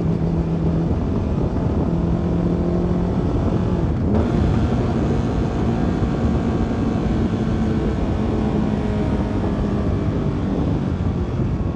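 CFMoto 300NK's single-cylinder engine running steadily while riding, under a rush of wind noise. About four seconds in the engine note climbs to a higher pitch and holds there, and the wind rush grows louder.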